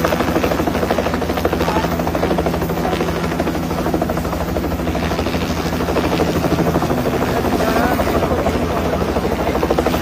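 Helicopter hovering close by, its rotor beating fast and steadily over a low engine hum.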